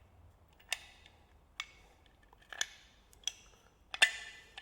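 Clicks and clinks of the water pump's parts being handled: five short sharp clicks about a second apart. The last is the loudest, with a brief ring.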